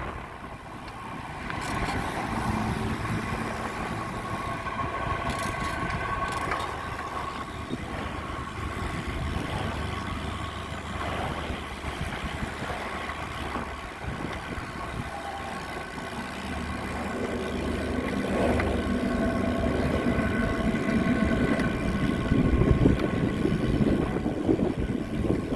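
Motor vehicle traffic: engines running with a steady low rumble that grows louder near the end.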